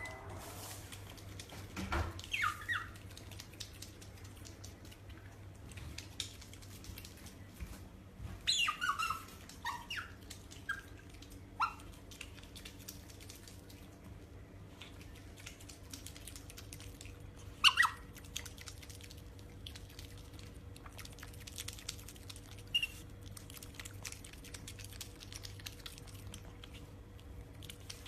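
An animal giving short, high squeaks and chirps in scattered bursts, each sliding down in pitch, with the loudest about eighteen seconds in.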